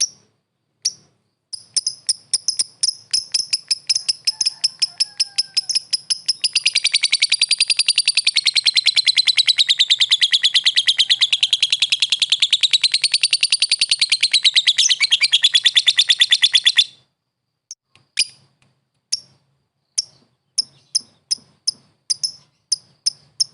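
Lovebird calling: sharp high chirps that quicken into a long, rapid chattering trill, the 'ngekek', of about ten seconds. The trill breaks off suddenly and single chirps follow.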